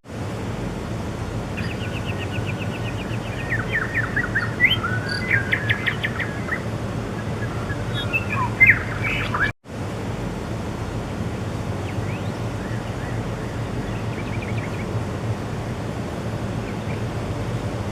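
A small bird singing: quick chirps and rattling trills through the first half, then a brief drop-out and only a few faint chirps, over a steady background hiss.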